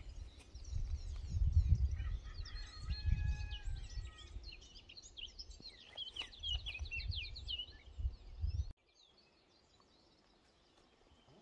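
Small birds chirping and singing over gusts of wind buffeting the microphone. Both cut off abruptly about nine seconds in, leaving near silence.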